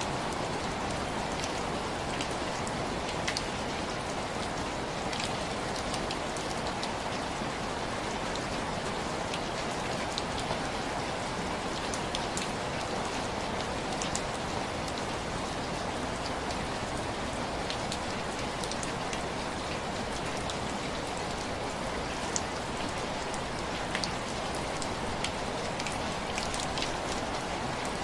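Heavy rain falling steadily, a dense even hiss with scattered small sharp ticks.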